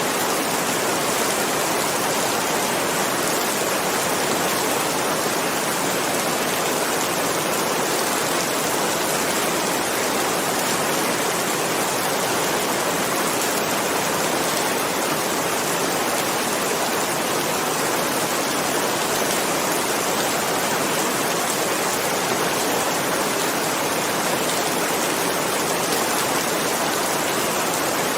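Steady rain falling, an even dense hiss that holds at one level throughout, with no thunder.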